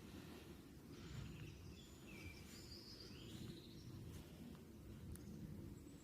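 Faint songbird calls in a forest: several short chirps and whistles, one rising, between about one and four seconds in, over a steady low rumble of outdoor background noise.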